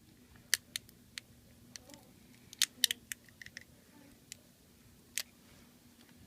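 Sharp little clicks and taps of small repair tools against the parts of an HTC One M7 smartphone being disassembled, coming irregularly, about nine in all, over a faint steady hum.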